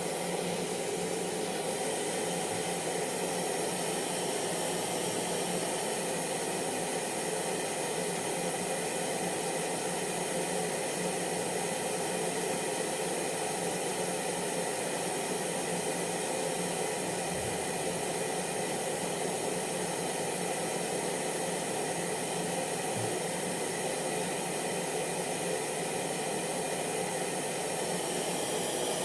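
Hair dryer running steadily: a constant whooshing rush of air with a faint motor hum underneath.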